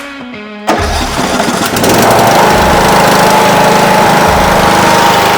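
A Briggs & Stratton engine on a Troy-Bilt Pony riding mower starts suddenly less than a second in, cutting off a short bit of guitar music, and runs steadily at high speed with a steady high whine on top, the mower running again after its fuel-system repair.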